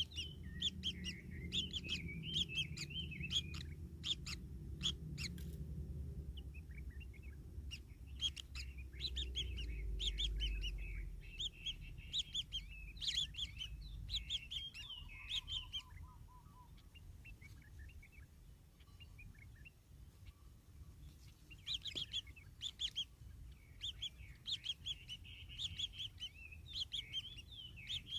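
Kingfisher chicks calling with rapid, high chirps in bursts, with a quieter lull a little past the middle. A few sharp clicks come in the first seconds, over a low rumble through the first half.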